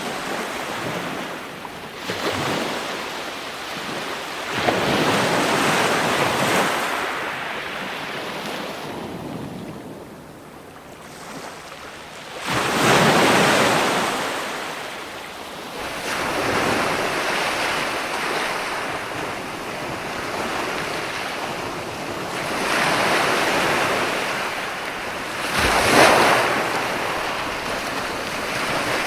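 Ocean waves breaking and washing ashore in a series of swelling and receding surges. A big wave crashes about a third of the way in and another sharp crash comes near the end.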